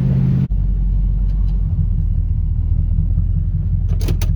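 LS V8 in a swapped Pontiac Firebird running under way with a steady low rumble, free of the ticking misfire it had before its new spark plug wires. About half a second in the sound shifts abruptly to a deeper rumble, and a few short clicks come near the end.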